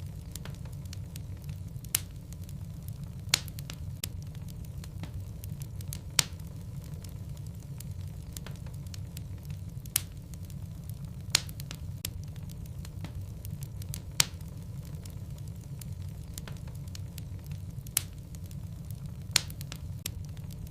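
Logs burning in a fireplace: a low, steady rumble from the fire with sharp crackling pops every second or two and fainter ticks between them.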